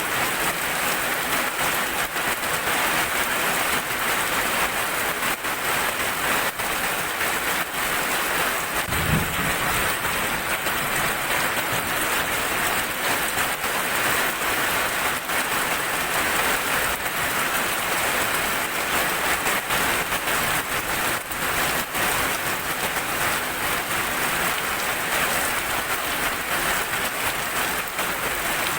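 Steady heavy rain falling, an even hiss of drops. About nine seconds in, a brief low rumble of thunder.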